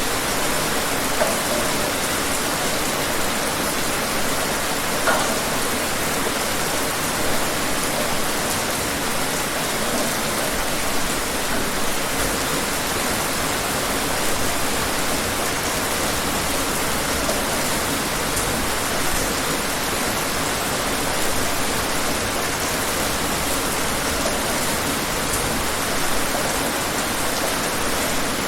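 Steady rain falling, a dense even hiss with scattered drops pattering.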